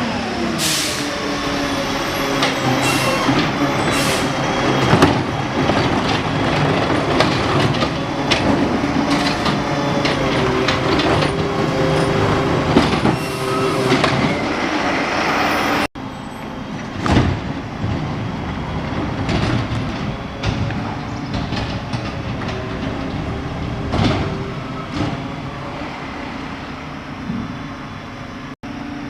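Garbage truck engine running, its pitch rising and falling, with many sharp clanks and bangs throughout.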